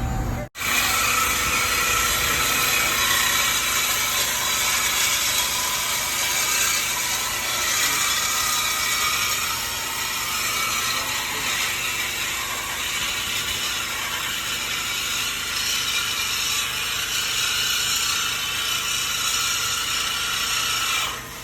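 Shop power tool running steadily on the car's exhaust during a mid muffler delete: a harsh, high-pitched mechanical noise that starts about half a second in and stops just before the end.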